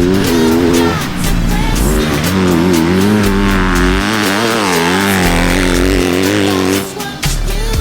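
Dirt bike engines revving up and down, mixed with background music that has a stepping bass line.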